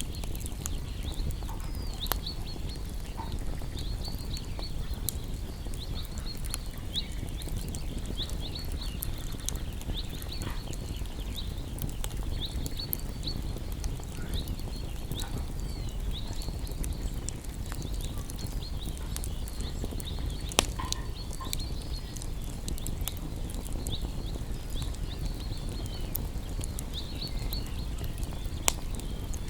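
Campfire of burning wood crackling, with scattered sharp pops over a steady low rumble, and faint high chirps that come again and again.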